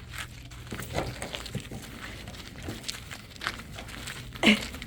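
Scattered rustling and light footsteps in an animal pen, with a short squeal falling in pitch near the end.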